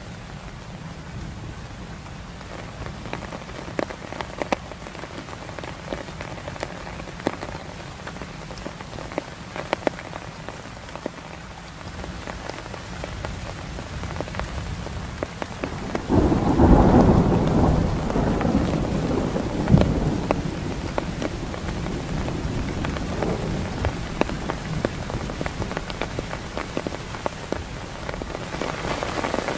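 Heavy rain falling steadily, with many sharp drops ticking on a nearby surface. About halfway through, a loud roll of thunder breaks in suddenly and rumbles away over the next few seconds.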